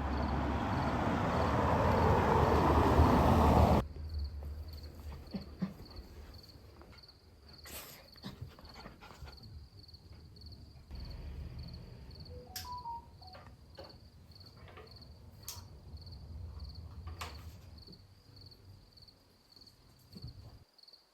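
A loud, even rushing noise that grows louder for about four seconds and cuts off suddenly, followed by scattered clicks and knocks of household handling. Under it all, crickets chirp in a faint, even, high pulse.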